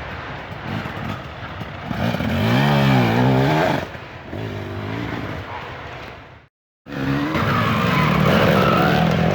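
Dirt bike engines revving hard, the pitch swinging up and down sharply about two to four seconds in. The sound drops out completely for a moment just before seven seconds, then loud engine running resumes.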